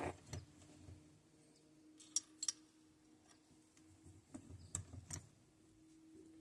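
Faint, scattered light clicks and taps of small metal parts and hand tools being handled on a workbench: a few single ticks, then a quick cluster about four to five seconds in.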